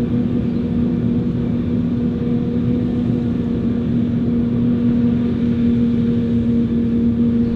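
Heavy diesel farm machinery running steadily, a constant droning hum with one steady tone over a low rumble.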